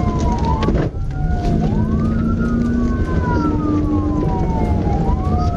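Two police sirens wailing out of step, their slow rising and falling tones crossing each other, over the steady rumble of road and engine noise from a pursuing patrol car.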